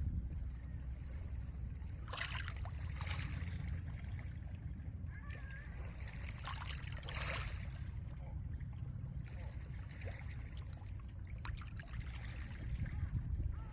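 Small lake waves washing onto a pebble shore, each wash a brief hiss that comes and goes every few seconds, over a steady low rumble of wind.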